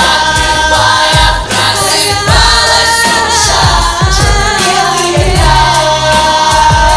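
Children's vocal ensemble singing a pop song in harmony over a backing track with a steady beat and bass.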